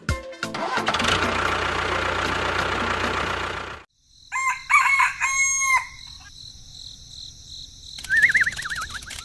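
A steady rushing noise for about four seconds that cuts off suddenly, then a rooster crowing, and a wavering high whistle near the end.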